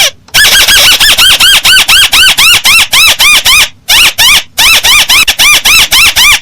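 Crake (Indonesian 'burung tikusan sawah') calling: a fast run of short notes, each rising then falling in pitch, about five a second, with a brief break a little past halfway.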